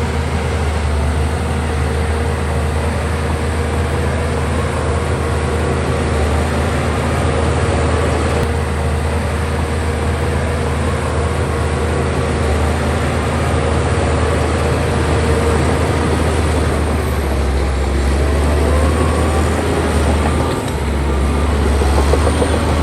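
Heavy diesel engine of an earth-moving machine running steadily with a deep drone. Near the end it climbs in pitch and gets a little louder.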